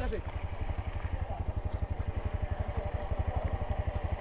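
Motorcycle engine idling with a steady, rapid, even pulse.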